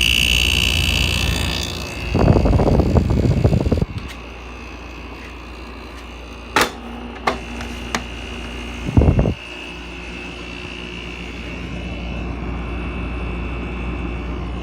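2005 GoldStar 5400 BTU window air conditioner running on high cool with a steady hum of fan and compressor. About two seconds in there is a loud burst of noise lasting roughly two seconds; a few sharp clicks follow in the middle, and there is a short thump about nine seconds in.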